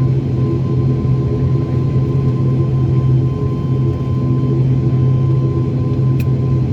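ATR 72-600 turboprop engines and propellers droning steadily, heard from inside the passenger cabin: a deep, even hum with a thin whistling tone over it. A brief click near the end.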